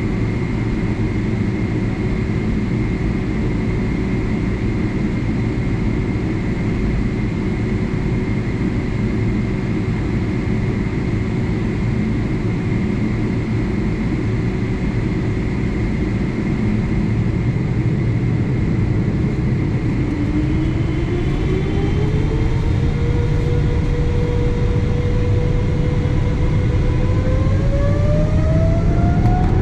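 Airliner cabin hum with the jet engines spooling up. A whine rises in pitch about twenty seconds in, levels off briefly, then climbs again near the end as the sound grows slightly louder.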